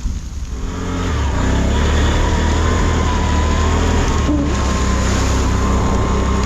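Off-road vehicle's engine running, building up over the first second or two and then holding steady.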